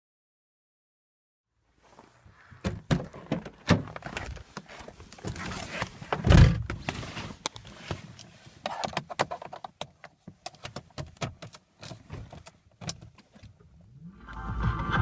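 Clicks, rattles and knocks of a car's interior being handled, keys jangling, with one heavy thump about four seconds after the sounds begin, typical of a door shutting. Near the end a steady whirring with a low rumble starts as the BMW E39 525tds diesel begins to be cranked.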